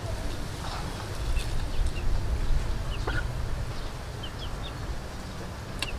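Birds chirping in short, scattered calls, with a few faint clicks, over a low steady rumble.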